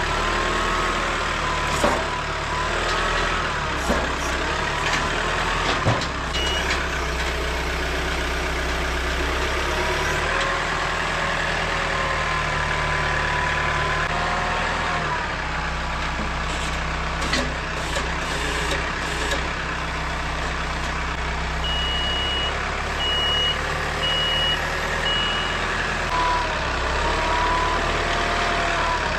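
Engine of a heavy machine running, its revs rising and falling, with a reversing alarm beeping once early and four times in a row near the end. A few sharp knocks in the first several seconds.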